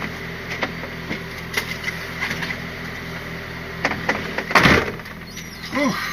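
Scania R450 lorry's diesel engine idling steadily, heard from inside the cab, with paper handling and small clicks over it and a louder rustling burst about four and a half seconds in.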